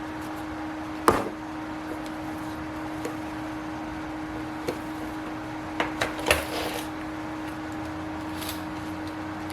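Handling and opening a drill-bit case: a sharp snap about a second in, a small tap near five seconds, and a quick cluster of clacks around six seconds, over a steady hum.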